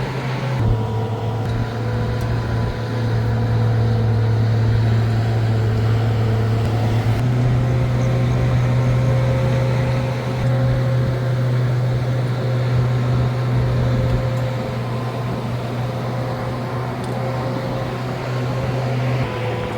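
An engine running steadily with a strong low hum. Its pitch shifts a few times, about a second in, at about seven seconds and near the end.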